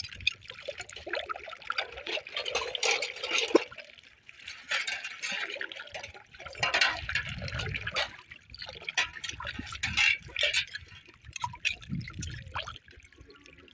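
Water sloshing and splashing in uneven bursts with short pauses between them.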